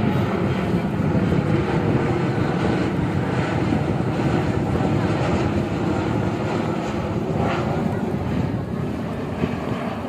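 Jet engines of a Boeing 737-800 airliner (CFM56-7B turbofans) running, a steady deep engine noise that holds at the same level throughout.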